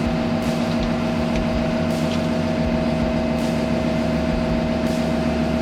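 Steady mechanical hum of a running machine, even and unchanging, with two held tones and a few faint clicks over it.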